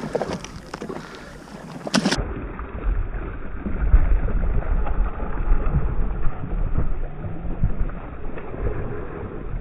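Wind buffeting a camera microphone out on the water, with water noise around a jet ski. About two seconds in, the sound turns abruptly duller, with a heavy, gusty low rumble.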